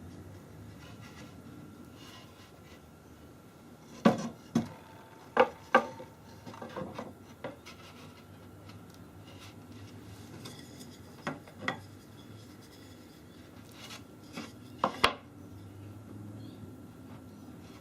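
Scattered sharp knocks and clacks with some rubbing, as of wooden parts handled and set against each other, coming in clusters with the loudest near the start of the first cluster and in the last.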